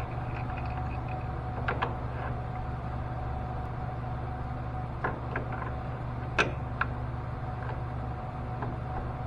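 Metal lathe running with a steady hum while washers are turned, with a few short metallic clicks and taps scattered through.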